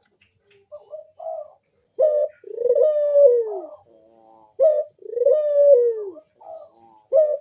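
Barbary dove (burung puter) cooing in full voice. It repeats its call three times about two and a half seconds apart: each time a short sharp note, then a long drawn-out coo that drops in pitch at the end, with softer low notes in between.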